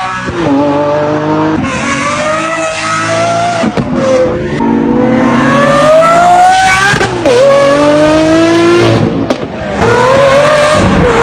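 Lamborghini V12 engine at full throttle, its pitch climbing high and dropping sharply at each gear change, about four pulls in a row.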